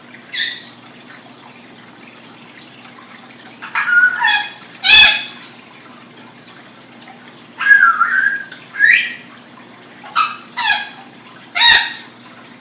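A pet's short, high-pitched squeaky calls, about eight of them in irregular bursts with quiet gaps between, the loudest about five seconds in.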